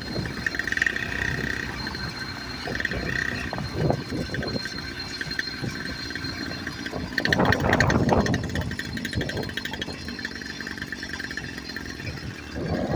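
Small engine of a home-built bike with a new exhaust, running under way as it is ridden, with a louder stretch about seven seconds in.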